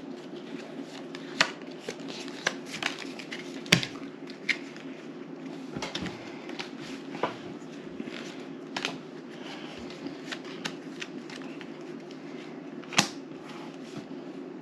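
Playing cards being handled and laid down on a table: irregular light clicks and slaps with soft rustling, over a steady low hum.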